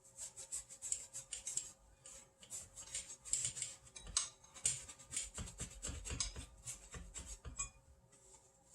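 A cloth rag rubbing and wiping over a ceiling fan's housing in quick, irregular strokes, stopping shortly before the end.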